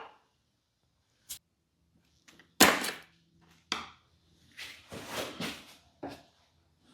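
Scattered knocks and clunks of hand tools and engine parts being handled while working the carburetor off an outboard motor: a small click, a sharp knock about two and a half seconds in and another a second later, then a run of softer clatter.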